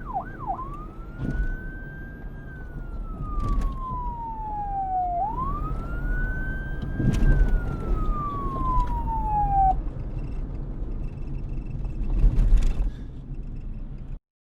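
Emergency vehicle siren switching from a fast yelp to a slow wail: two long rise-and-fall sweeps, the siren fading out about ten seconds in. Traffic rumble with a few sharp knocks runs under it and cuts off abruptly just before the end.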